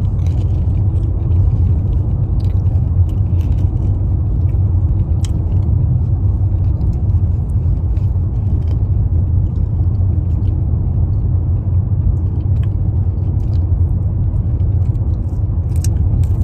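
Steady low road rumble inside a moving car's cabin, with scattered small clicks of someone eating.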